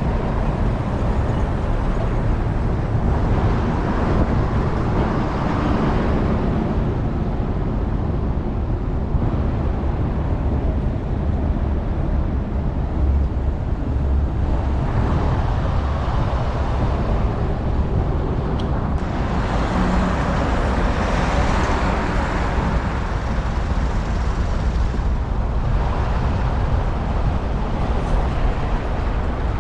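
Steady wind rumble on a bike-mounted action camera's microphone while riding, with road traffic noise that swells and fades several times as vehicles pass.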